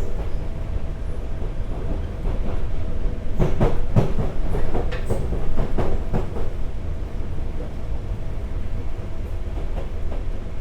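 Sotetsu 8000 series electric train with Hitachi GTO-VVVF drive running along the line, heard from inside the car: a steady running rumble with a faint steady tone. About three seconds in comes a run of sharp wheel clicks over rail joints, lasting about three seconds.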